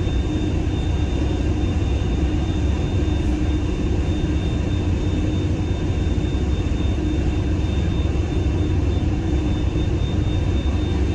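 A passenger hovercraft's engines and propellers running steadily at cruise, heard from inside the cabin: a deep, unbroken hum with a thin steady whine above it.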